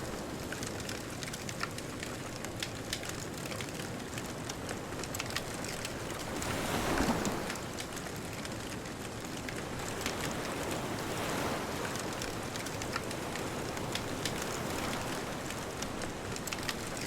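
Bonfire crackling with frequent small sharp pops over a steady wash of ocean waves. One louder swell, likely a wave breaking, comes about seven seconds in.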